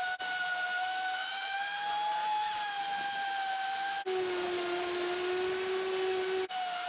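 Power sander running with a steady high whine and hiss, sanding down a coat of Bondo body filler. A lower second tone joins it from about four seconds to six and a half, and the sound breaks off briefly at each change.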